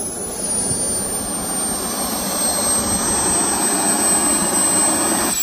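Swiwin SW80B RC jet turbine running, really loud: a steady roar under a high whine that eases down in pitch over the first couple of seconds, then holds steady, and starts to fall away again at the very end as the turbine begins to spool down.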